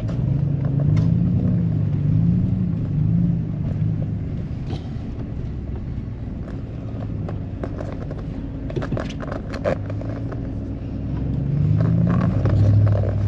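Four-wheel-drive pickup truck's engine and road noise heard from inside the cab while driving, the engine note rising and falling with the throttle and climbing louder near the end. A few light knocks and clicks come through in the middle.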